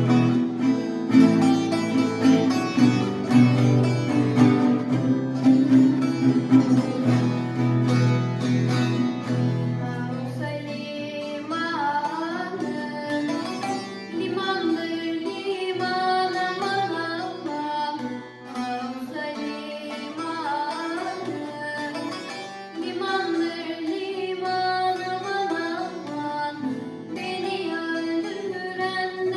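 Acoustic guitar and bağlama playing a Turkish folk tune (türkü) together; about eleven seconds in a voice comes in singing an ornamented melody over the strings.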